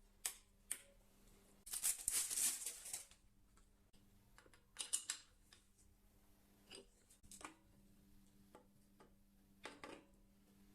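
Hand work on small parts: scattered sharp clicks and taps, with a scraping rustle lasting about a second and a half near the start as the loudest sound.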